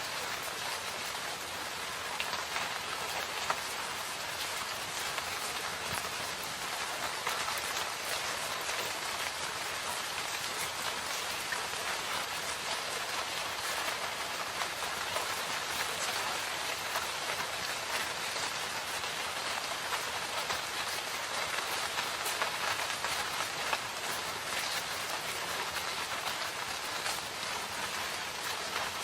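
Steady rain falling in a forest, an even hiss dotted with many small drop impacts.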